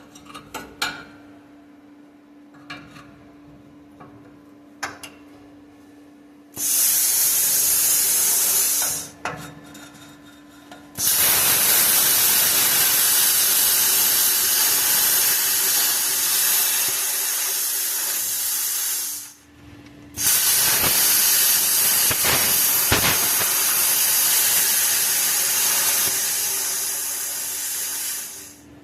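Bestarc plasma cutter firing, its air-and-arc hiss coming in three runs: a short one of about two seconds, then two long ones of about eight seconds each with a one-second break between them. A few small clicks come before the first run.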